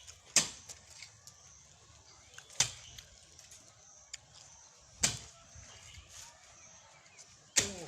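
Four sharp strikes of a digging tool into the ground, about two and a half seconds apart: a trench being dug by hand.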